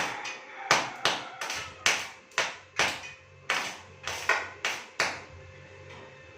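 Repeated sharp taps of a hammer on metal, about two a second, some with a brief ring, stopping about five seconds in.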